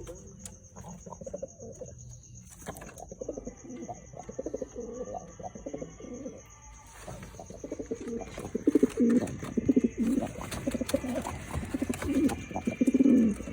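Domestic pigeons cooing repeatedly, a male courting a hen while being paired. The coos grow louder and more frequent about halfway through.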